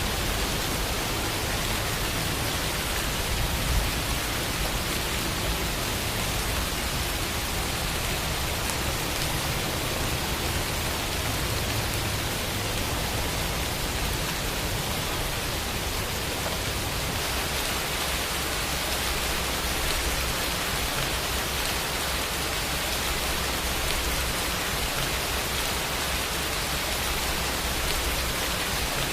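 Steady rain falling, a dense even hiss of drops with no distinct single drops or thunder standing out.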